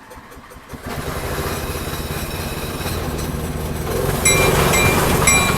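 Model train locomotive pulling away: a steady low running rumble that comes in under a second in and grows louder, joined from about four seconds in by a bell ringing in short strokes about every half second.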